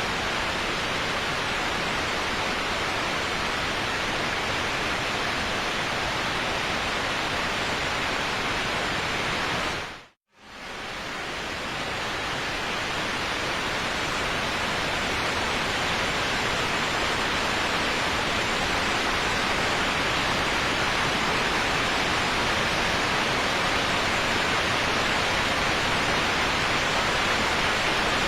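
Steady rushing of a waterfall, an even roar of falling water. About ten seconds in it drops out to silence for a moment, then fades back up to the same steady rush.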